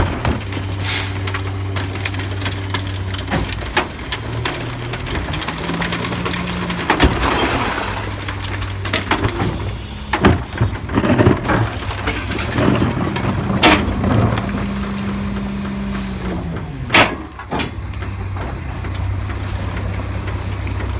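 Garbage truck engine running steadily, revving up partway through and settling back down, with scattered bangs and clanks from the truck at work.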